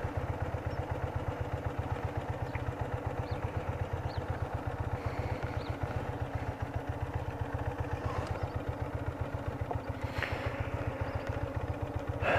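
BMW R80RT's air-cooled flat-twin engine running steadily at low revs, an even pulsing beat with no revving.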